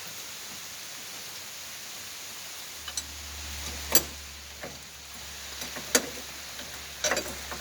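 Steady rain hiss, with several sharp clicks and knocks from about three seconds in, the loudest two a couple of seconds apart, as parts are handled; a low steady rumble joins at about the same time.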